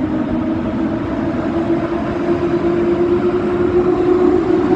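EP07 electric locomotive standing with its train before departure, its equipment giving off a steady hum with a held mid-pitched tone over a low rumble, growing slightly louder.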